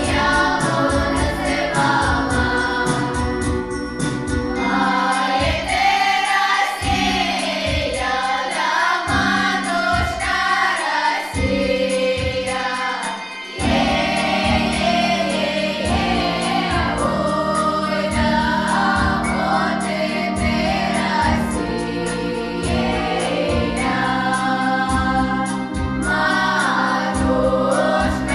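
Choir singing a song over instrumental accompaniment with a steady beat, recorded live. There is a short drop in level about halfway through.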